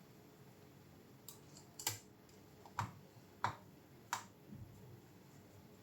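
A few sharp, separate clicks and taps, about half a second to a second apart, like small hard parts or tools being handled and set down during hands-on work on a graphics card.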